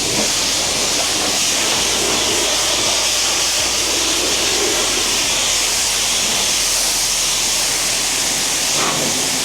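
Pressure washer spraying water in a steady hiss.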